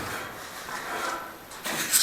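Rough scraping and rubbing strokes of brick-and-mortar masonry work, about one a second, the loudest near the end.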